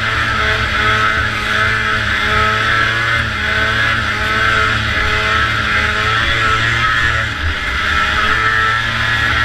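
Vintage two-stroke racing snowmobile engine running hard at speed, its pitch wavering slightly up and down with the throttle.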